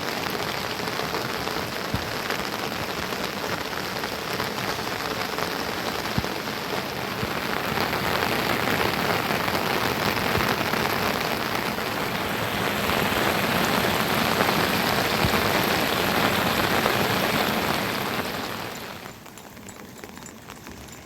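Heavy rain falling steadily, swelling a little in the middle, then dropping away suddenly to a much quieter hiss near the end.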